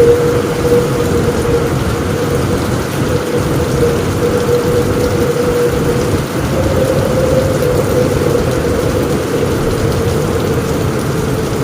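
Steady rain on a roof with a continuous low rumble of thunder and a steady, slightly wavering tone running beneath it. There are no sharp cracks.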